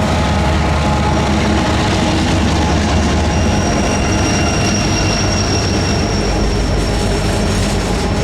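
Loaded coal train rolling past, steel wheels rumbling on the rails, with a thin high wheel squeal starting about three seconds in.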